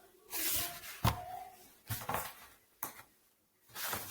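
A picture book's page being turned: a short paper rustle, then a few separate soft knocks and taps as the book is handled.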